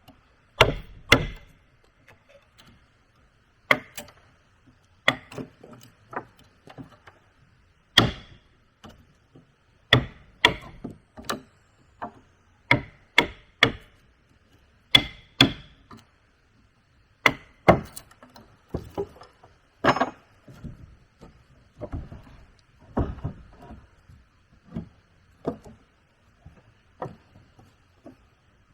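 A hand tool striking wood again and again: sharp, irregular blows, often in quick pairs, with short pauses between. A faint steady high hum runs underneath.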